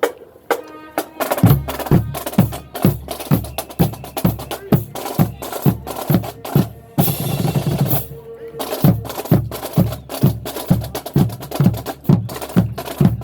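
Marching band drumline playing a cadence: bass drums keep an even beat of about three hits a second under rolling snare strokes. A longer splash of high noise comes about seven seconds in.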